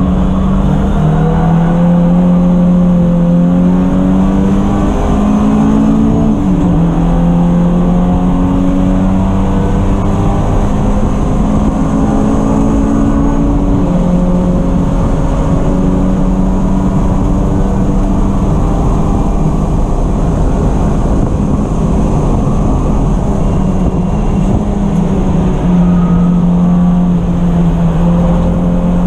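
Race car engine running hard through a lap, its pitch climbing steadily under throttle and dropping sharply about six seconds in, with steady road and wind noise underneath.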